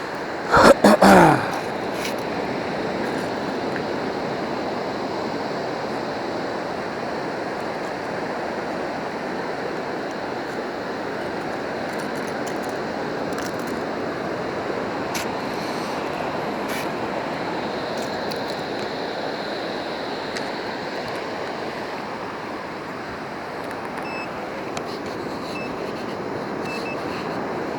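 Steady wash of ocean surf breaking on the beach. A brief loud, sharp sound comes about a second in.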